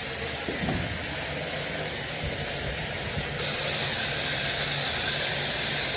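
Hot water running steadily from a tap, a hissing spray of flowing water. About three and a half seconds in the hiss turns a little louder and fuller.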